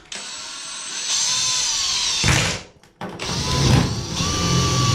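Power drill boring a hole into a fiberglass bathtub at the end of a crack, the hole that will take the nozzle of an expanding foam spray to support the tub from underneath. The drill runs for about two seconds, stops briefly, then starts again.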